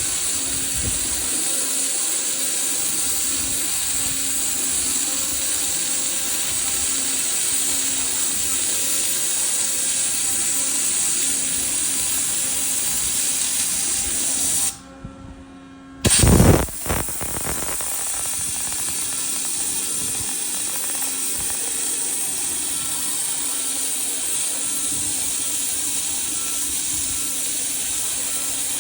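Waterjet cutter running, a loud steady hiss with a faint steady hum underneath as it cuts ABS plastic sheet. About halfway through the hiss drops away for a second, then a heavy thump comes before the hiss resumes.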